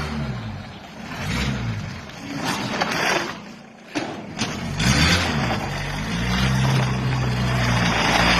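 An engine running, its pitch rising and falling under a noisy rush.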